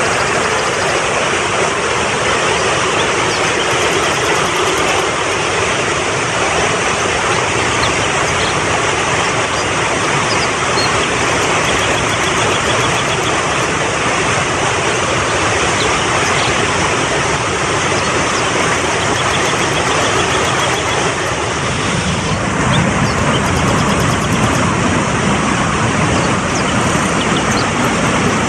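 Mountain stream flowing fast over rocks: a loud, steady rush of water that grows a little fuller and deeper about three quarters of the way through. Faint high chirping sits over it.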